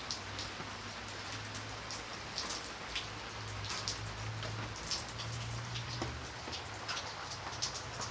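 Steady rain, with many individual raindrops ticking sharply over an even patter. A low steady hum runs underneath.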